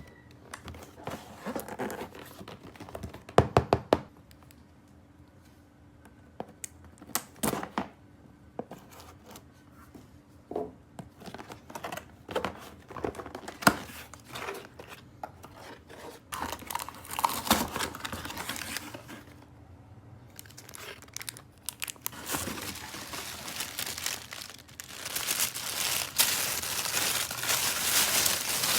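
Plastic packaging crinkling and tearing as toys are unboxed, with scattered sharp clicks and knocks of plastic pieces being handled. The crinkling grows denser and louder over the last few seconds.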